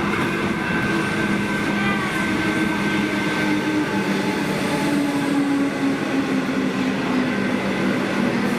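Suburban passenger train running at close range: a steady rumble with humming tones that shift slightly in pitch.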